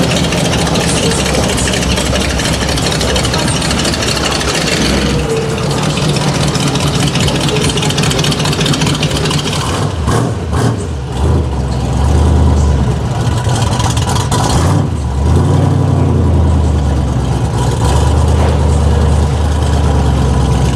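Deep, steady rumble of V8 muscle car engines idling and moving off at low speed, dipping briefly twice around the middle.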